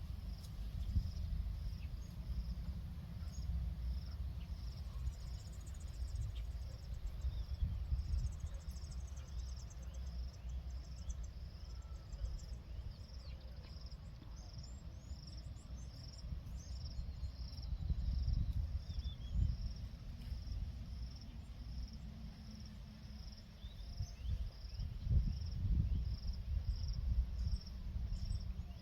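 An insect, likely a cricket, chirping high and evenly, about three chirps every two seconds, over an uneven low rumble, with a few faint bird chirps.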